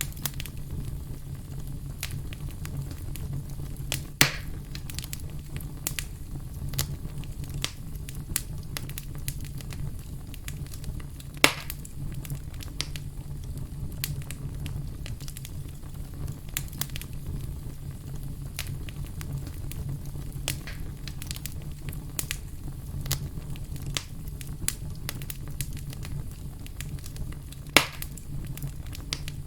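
Fire burning in a fireplace: a steady low rush with frequent small crackles, and three louder sharp pops spread through.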